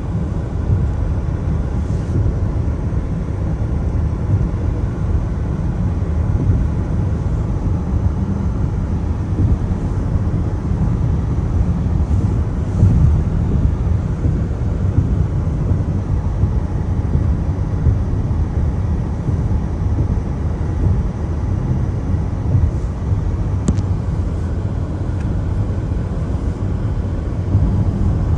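Steady low road noise of a car driving on wet pavement in the rain: the rumble of tyres and engine, with a faint hiss above it.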